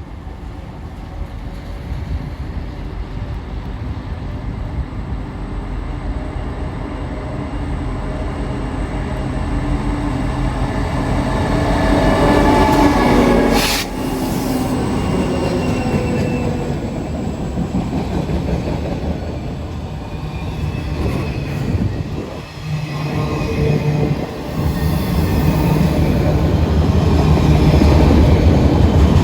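Diesel-electric locomotives of a CSX freight train approaching and passing, growing louder, with the engine pitch dropping as the lead unit goes by about fourteen seconds in. The train then keeps rolling past, louder again near the end.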